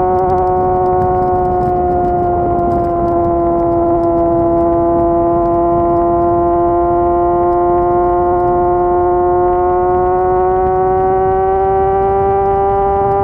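Yamaha YZF-R6 inline-four engine running at high revs, a steady high-pitched note held in one gear. Its pitch dips slightly a couple of seconds in, then climbs slowly as the engine pulls.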